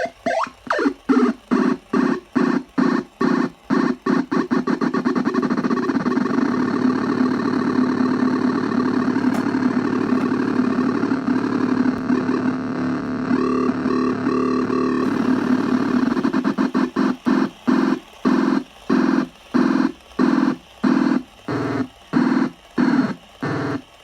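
The Videodrone, a circuit-bent oscillator noise box, makes a buzzy electronic drone. It is chopped into rapid pulses, about three a second, then held as one steady tone from about five seconds in. Some twelve seconds later it breaks back into slower pulses.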